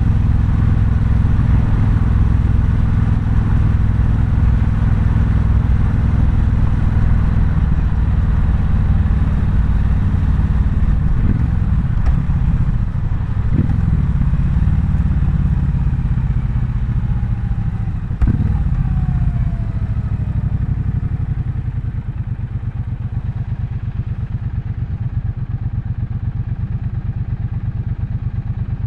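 Triumph Bonneville Bobber's 1200 cc parallel-twin engine running at a steady pitch, then easing off, with a few sharp clicks in the middle, and settling to a quieter, evenly pulsing low-speed beat for the last several seconds.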